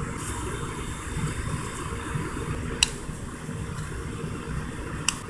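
A steady low mechanical hum in the room, with two short sharp clicks, one about three seconds in and one near the end.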